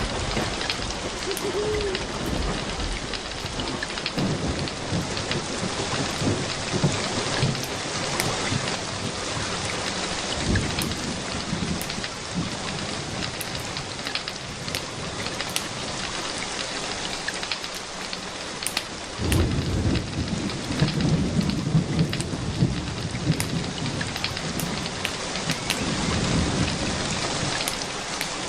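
Steady rain hissing, with low rolls of thunder; a longer, stronger rumble sets in about two-thirds of the way through.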